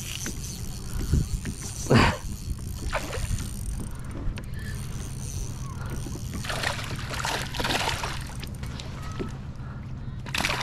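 Water splashing and sloshing around a kayak, with a few short, sudden splashes: a loud one about two seconds in, a cluster about two-thirds of the way through and another near the end, over a steady low hum.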